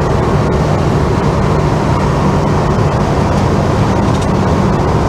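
Holden HK's engine and road noise as heard inside the cabin while cruising, a steady drone with a few faint ticks.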